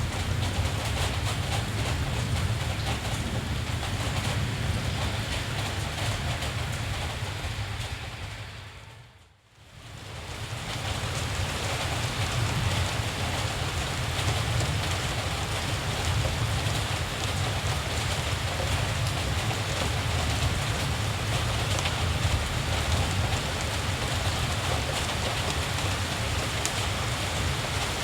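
Steady rain, an even hiss with a low rumble underneath. About nine seconds in it fades away almost to silence and swells back up within a couple of seconds.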